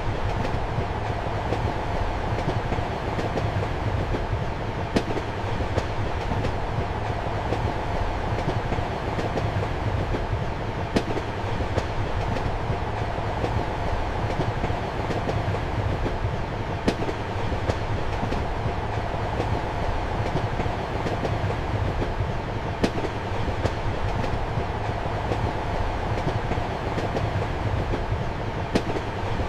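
Steady rumble of a moving passenger train heard from inside a compartment, with a sharp wheel click over the rail joints roughly every six seconds.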